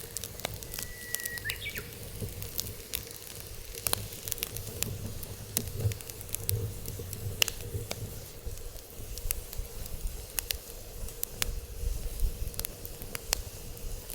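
Wood fire burning in a steel fire pit, crackling with irregular sharp pops over a low rumble. A brief thin whistle sounds about a second in.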